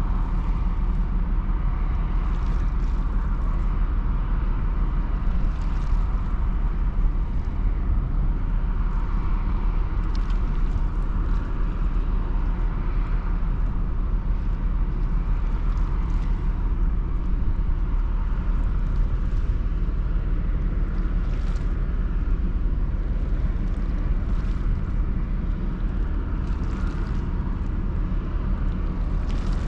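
Steady low rumble of a Ro-Ro passenger ferry underway, with a constant hum higher up and no change in pace.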